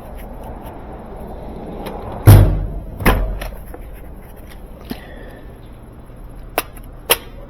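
Tools and parts being handled during washer wiring work: a heavy knock about two seconds in, a second knock a moment later, and two sharp clicks near the end.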